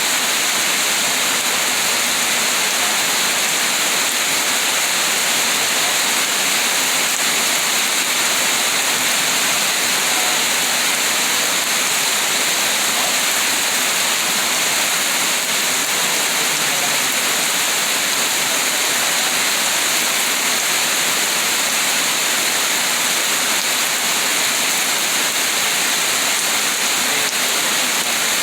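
Steady rain falling, an unbroken even hiss with no separate drops or thunder standing out.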